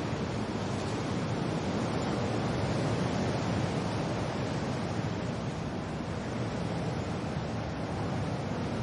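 Steady rain with wind, an even hiss that swells a little and eases off again.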